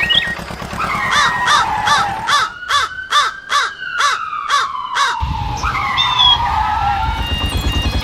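About eight harsh, evenly spaced cawing calls with a slow falling tone running under them. About five seconds in, a low, steady, pulsing engine rumble starts.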